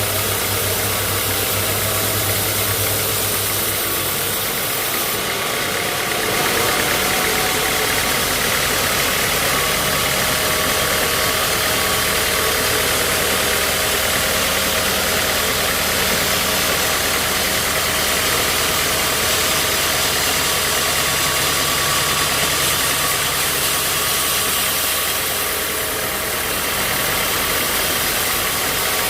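Sawmill machinery running steadily: a continuous engine-like drone under a dense, even hiss.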